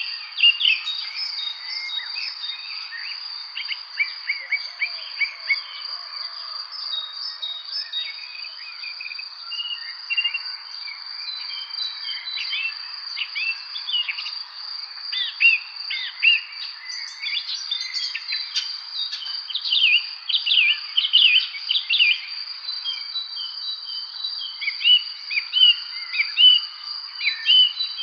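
Evening spring birdsong: many birds chirping in short, quick phrases, sweeping notes that come thickest in the middle and near the end, over a steady high-pitched insect trill that never stops.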